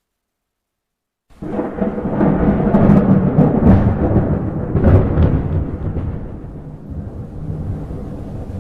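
Thunder: after about a second of silence, a sudden clap breaks into a long rolling rumble with several sharp cracks in the middle, easing into a lower rumble near the end.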